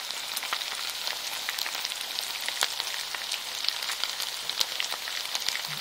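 Chicken and vegetables stir-frying in hot olive oil in a pan: a steady sizzle with many small crackles and pops.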